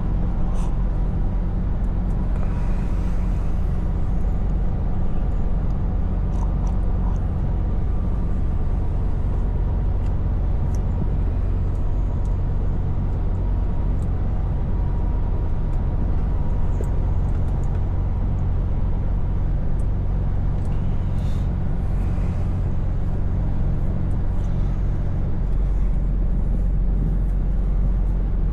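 Scania V8 truck engine running steadily under way, a low drone with road noise. The low engine note grows louder a little before the end.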